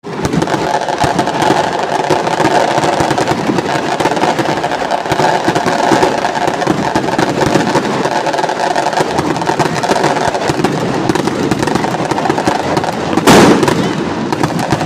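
Large bonfire crackling and popping steadily, with one louder bang about 13 seconds in.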